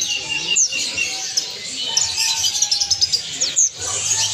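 Many caged songbirds chirping and calling together, with quick high whistles that fall in pitch and repeat every second or so.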